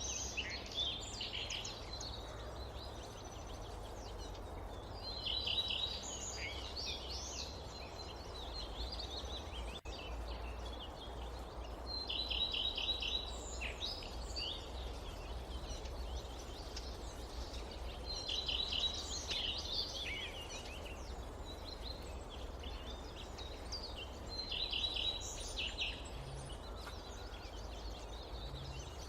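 A songbird repeating the same short, high phrase about every six seconds, a brief held note followed by a quick run of notes, over a steady low rumble of forest ambience.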